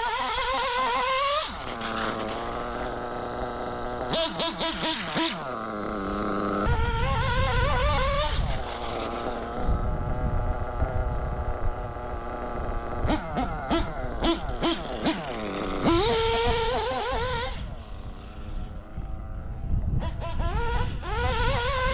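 Ielasi Dusty nitro RC engine, fitted with an OS P4 glow plug, idling steadily and revved up and back down in short bursts several times. It is running much better on the P4 plug, by the owner's judgement.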